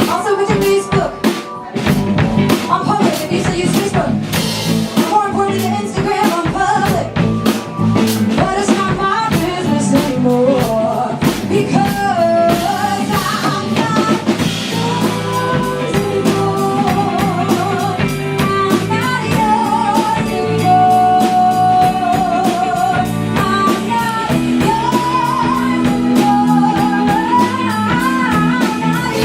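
Live band playing, with a woman singing a held, wavering melody over a steady drum-kit beat and guitar.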